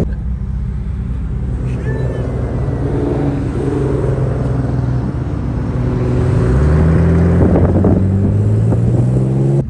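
Car engine running, its pitch rising twice as it accelerates, about a third of the way in and again past the middle.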